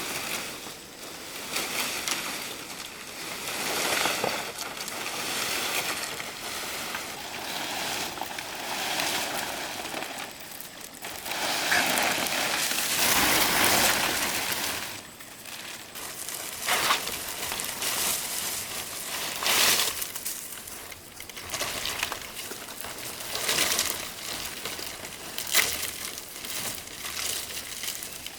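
Rustling and crinkling of leaves being handled, with a louder stretch in the middle and a few sharp knocks in the second half.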